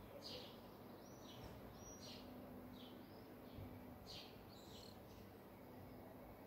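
Faint bird chirps: a string of short, high calls, some falling and some arched in pitch, scattered through, over a low steady background hiss.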